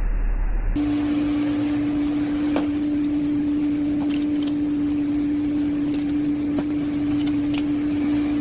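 A steady, even hum at one pitch, with a few light clicks scattered through it. Under a second in, it cuts in over a duller, lower hum.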